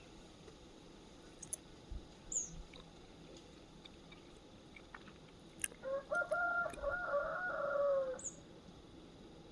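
A fowl's long call: several quick wavering notes that run into a longer falling note, about two seconds long, starting around six seconds in. A few faint, short high chirps come before it.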